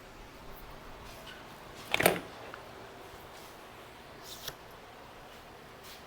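A sharp knock with a brief clatter about two seconds in, then a lighter click, as bicycle parts are handled.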